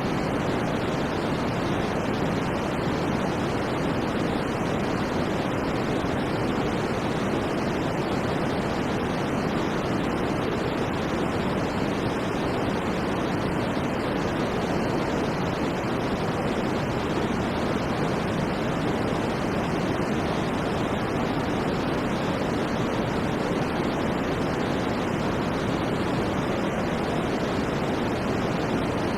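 Steady white noise for sleep: an even, unbroken hiss with no changes in level, fuller in the lower pitches and softer in the highs.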